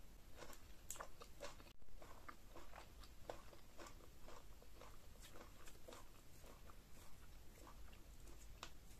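Quiet wet chewing and mouth clicks, many small irregular smacks, from eating meat coated in slimy ogbono okra soup.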